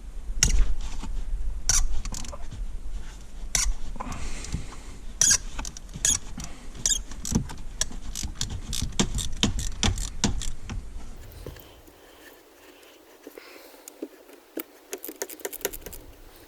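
Hand socket ratchet clicking in irregular runs as tight 13 mm bolts are worked loose, over a low rumble. It goes quieter about twelve seconds in, with a quick run of clicks near the end.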